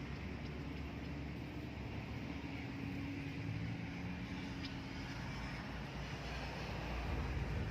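Steady low engine hum with an even background hiss, unchanging throughout.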